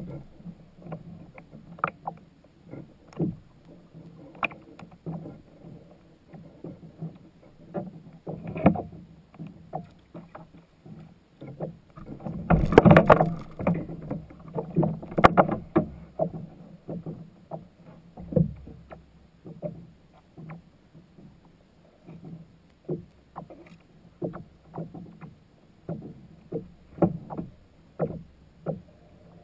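Sounds on a fishing kayak: irregular knocks and taps against the hull and water sloshing, with a louder rushing splash about halfway through.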